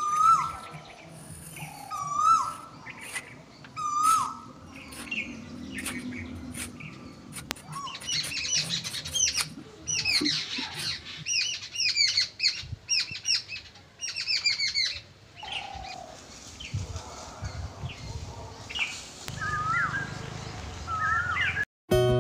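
Birds chirping and calling: a short whistled call repeats about every two seconds at first, then several birds chirp rapidly together in the middle, with a few sharp clicks among them.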